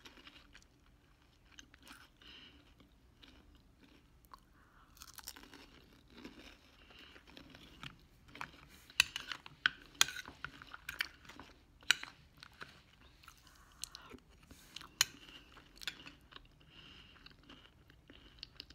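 A person chewing food close to the microphone, with crunching and sharp clicks. The clicks come thickest and loudest about halfway through.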